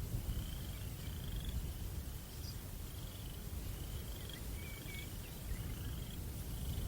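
Crickets chirping in short trills, about one a second, over a low, steady rumble of wind.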